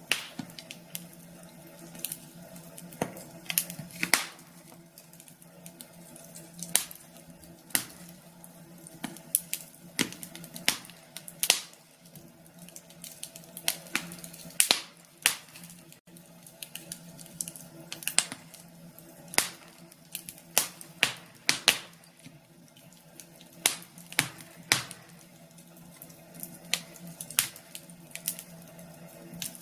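Logs burning in a fireplace, crackling with sharp irregular pops about once or twice a second over a faint steady hum.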